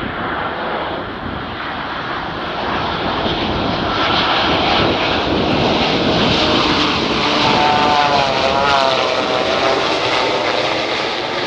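Boeing 787 running with its ram air turbine deployed: a loud, rushing aircraft noise that grows toward a peak about eight seconds in and then eases off. Near the loudest point, a wavering hum like a small propeller spinning rides over the rush.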